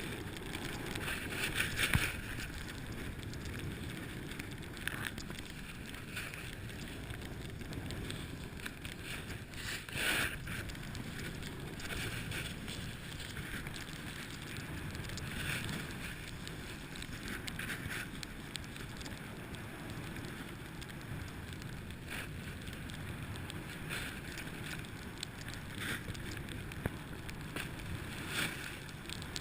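Snowboard sliding down a ski slope: a steady hiss of the board on snow, with a louder scrape of the edge about every two seconds as it carves each turn, and wind on the microphone.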